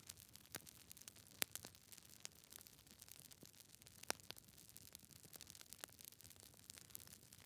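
Log fire crackling: faint hiss with irregular sharp pops and snaps, the loudest about one and a half seconds in and another about four seconds in.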